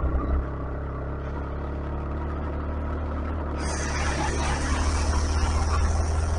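125cc motorcycle engine running steadily while riding, with a deep hum. About three and a half seconds in, a bright high hiss joins it and holds.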